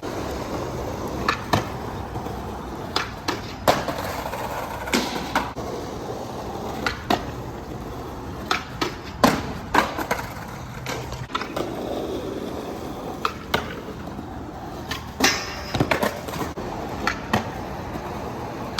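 Skateboards rolling with a steady rumble of the wheels on the ground, broken by repeated sharp clacks of boards popping and landing, irregularly, about a second or two apart.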